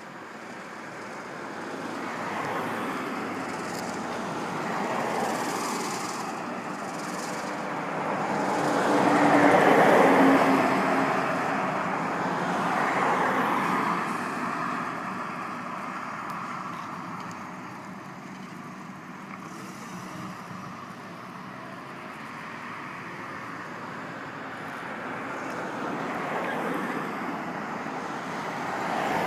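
Road traffic passing: vehicles swell up and fade away several times, the loudest going by about ten seconds in with a low engine hum.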